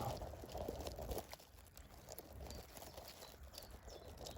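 Leaves and twigs rustling and crackling close to the microphone as a hedge is parted, louder for about the first second and then fainter, with scattered small clicks.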